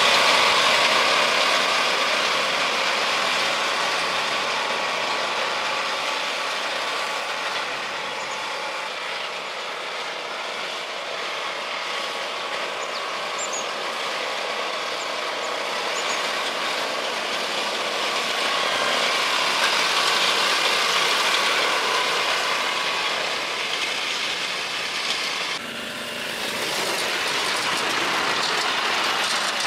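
Steady rushing vehicle noise that swells and fades slowly, changing abruptly about 26 seconds in.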